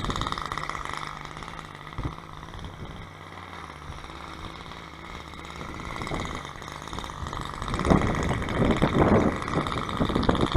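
Evolution 8cc gas model-aircraft engine idling steadily, then getting louder about eight seconds in as it is throttled up for taxiing.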